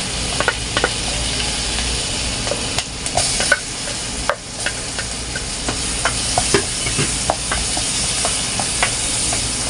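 Chopped garlic and onion sizzling in melted butter in a small nonstick pot, with a spoon clicking and scraping against the pot and plate as they are tipped in and stirred.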